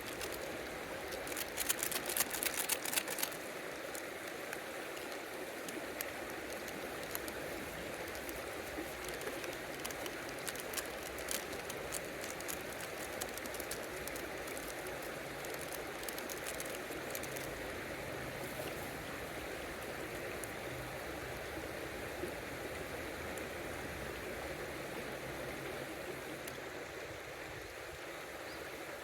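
River water running steadily. A quick cluster of sharp clicks and crackles comes about two seconds in, with a few lighter clicks later.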